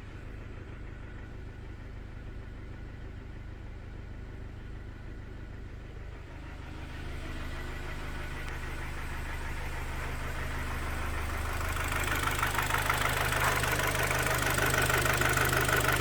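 Kia Sportage's G4KD 2.0-litre four-cylinder petrol engine idling cold with a knock, the fault that the repair traces to scored cylinders. The sound grows louder in the second half, where a rapid, even knocking stands out over the idle.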